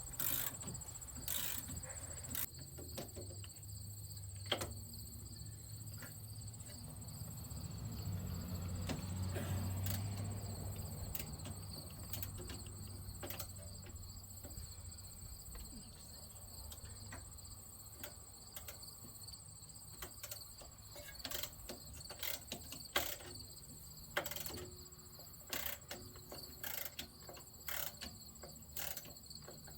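Crickets chirping steadily, with many scattered sharp clicks and knocks over them. A low rumble swells and fades about a third of the way in.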